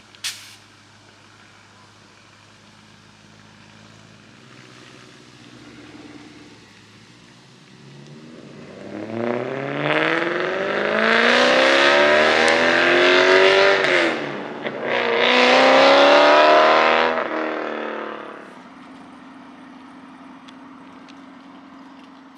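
A car's engine accelerating hard past: the revs climb, drop once at a gear change and climb again, then the sound fades as the car drives away.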